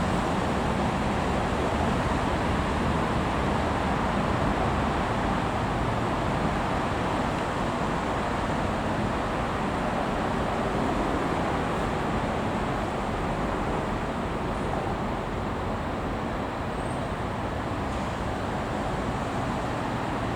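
Steady, even vehicle rumble with no distinct tones or knocks, easing slightly toward the end.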